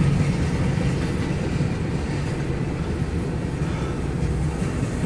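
CSX intermodal freight train's cars rolling past on the rails, a steady rumble of wheels and cars.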